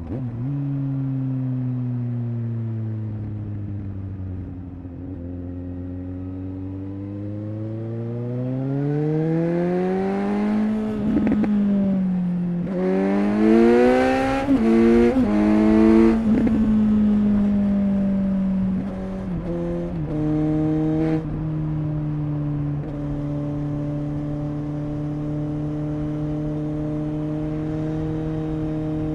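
Suzuki GSX-S 750's inline-four engine and exhaust on the move. The revs drop away for the first few seconds, then climb hard through several quick gear changes around the middle. They then settle to a steady cruise after a shift near the end.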